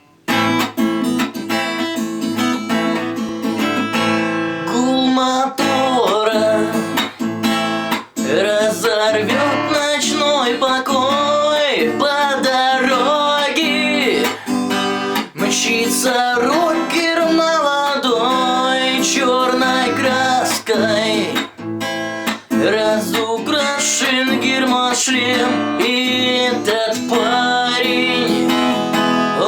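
Acoustic guitar strummed, playing a song's introduction. From about four seconds in, a wavering melody line rides over the chords.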